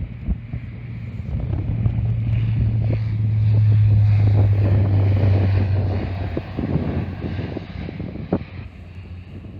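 An airliner passes close by, its engines a low hum that builds, peaks mid-way and fades with a slight drop in pitch. Wind buffets the microphone throughout.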